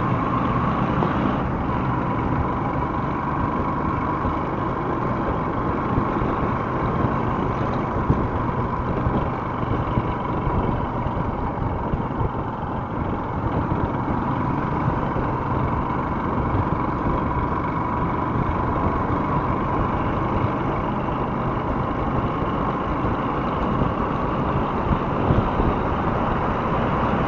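Steady motor-vehicle noise: a motorcycle engine running in city traffic, with the hum of the traffic around it.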